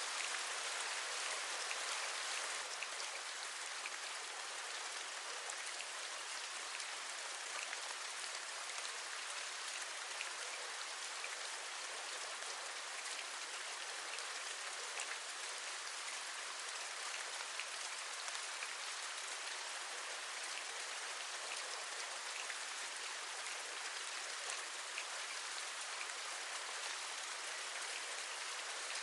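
Steady rain, with single drops tapping here and there; a little louder for the first couple of seconds, then even.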